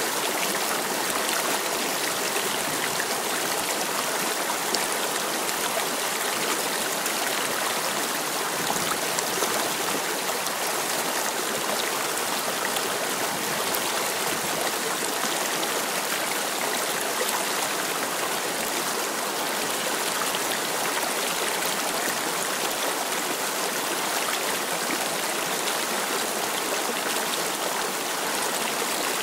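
Shallow river babbling and rippling over stones, a steady even rush of water.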